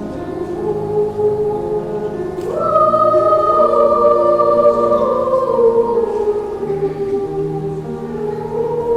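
Children's choir singing a wordless melody in long held notes. About two and a half seconds in, the voices leap up to a louder, higher note, hold it, and then slide back down.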